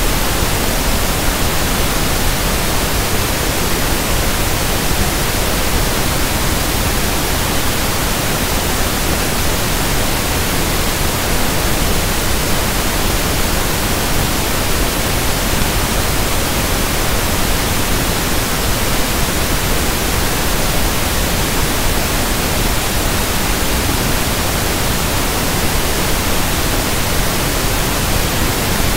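Synthetic pink (1/f) noise: a steady, even hiss with no change in level or character.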